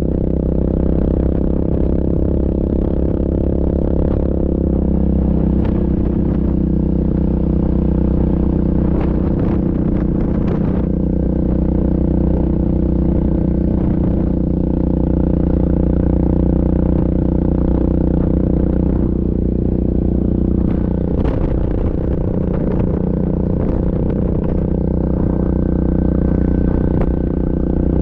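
Yamaha Grizzly ATV engine running steadily while riding, its pitch shifting slightly a few times, with scattered clatters and knocks from the machine.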